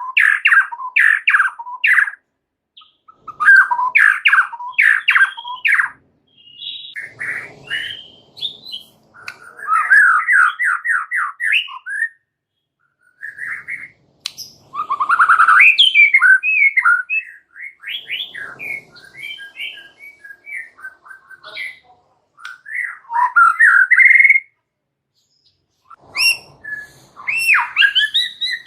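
A single white-rumped shama (murai batu) singing in loud bursts of fast, varied phrases (rapid repeated notes, glides and harsh notes) broken by short pauses. The busy, chattering style, full of mimicked fill-in phrases, is what keepers call 'rewel' with 'full isian'.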